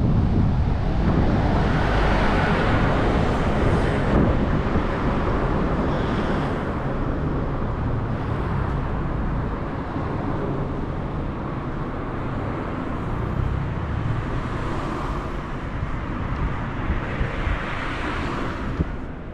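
Outdoor street sound: wind buffeting the microphone with a low rumble, over road traffic, with two swells of noise like vehicles passing, about two seconds in and again near the end.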